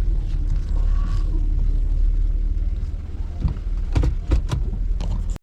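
Low steady rumble inside a car, with a few sharp clicks and knocks about four seconds in; the sound cuts off abruptly near the end.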